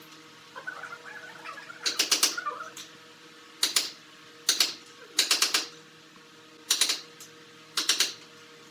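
Short clusters of quick, sharp knocks, a few rapid strikes at a time, repeating at irregular intervals of about a second, over a faint steady hum.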